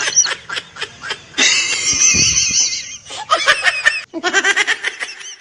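Laughter in quick repeated high-pitched bursts, with a longer high wavering squeal about halfway through.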